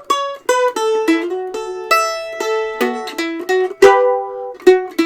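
Mandolin being flatpicked: a melody of single picked notes, each ringing briefly, with a harder stroke about four seconds in.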